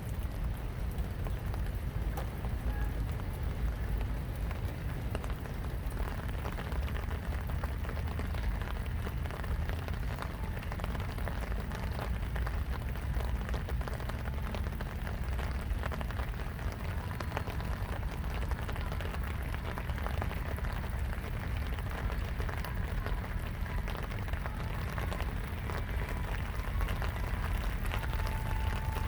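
Steady rain falling, a dense patter of drops over a steady low rumble.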